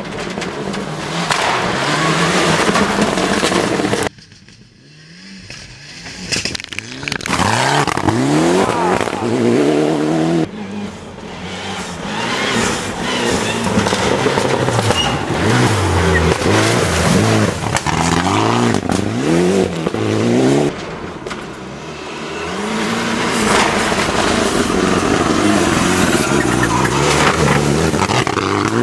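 Rally cars on a gravel special stage, engines revving hard, the pitch climbing and dropping again and again through gear changes. The sound breaks off abruptly about four seconds in, then builds back up as another car approaches, with further sudden changes between passing cars.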